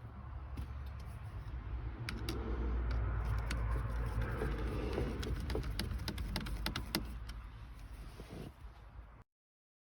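Hands working on plastic dashboard trim and parts: a run of sharp clicks and light rattles over a low rumble. It is busiest in the middle and cuts off abruptly near the end.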